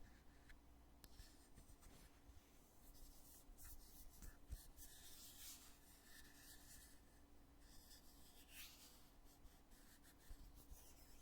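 Faint scratchy rubbing and a few small clicks as the lid of a cosmetic foundation container is handled.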